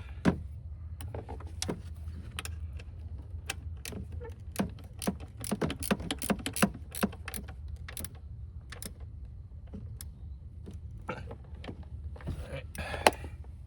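Irregular metallic clicks and knocks of hand tools and engine parts being handled and fitted, thickest in a quick run about halfway through, over a steady low hum.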